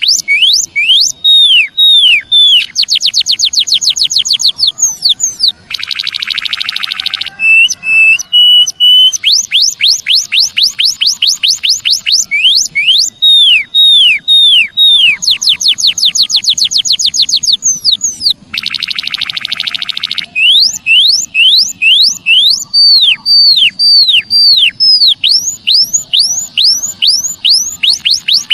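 Bird-lure recording of emprit kaji calls: fast series of sharp, high chirps that sweep downward, repeated in phrases. The chirping is broken twice by a buzzy rattle of about a second and a half, and once by a short, slightly rising whistle about 8 seconds in.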